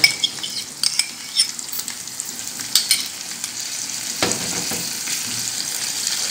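Yogurt and ginger-garlic and nut paste sizzling in hot oil in a frying pan, with a few short clicks of a spoon as yogurt is scraped in from a small bowl. About four seconds in, a wooden spoon starts stirring the mixture and the frying grows louder and steadier.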